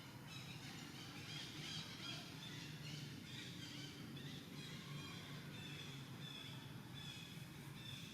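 Faint outdoor ambience of many short, high chirping bird calls overlapping one another throughout, over a low steady hum.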